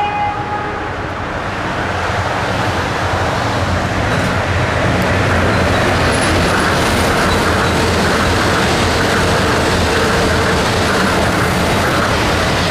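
Tokyo Monorail 10000 series train running past on its rubber-tyred straddle-beam guideway: a steady rushing noise that builds over the first couple of seconds and then holds.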